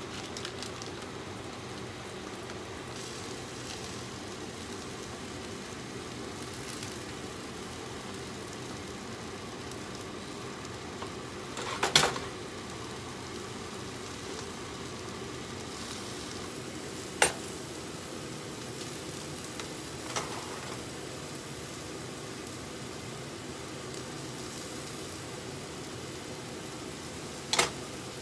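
Food frying with a steady sizzle, with four sharp clanks of metal utensils against the pots and pans; the loudest comes about twelve seconds in.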